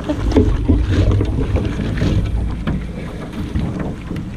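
Wind buffeting the microphone as a low rumble, strongest in the first two seconds, with scattered light knocks and rattles.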